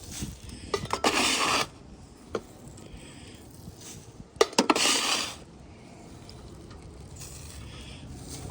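Leaves and gutter debris being scraped and scooped out of a gutter: two short rustling scrapes a few seconds apart, each starting with a sharp click or knock.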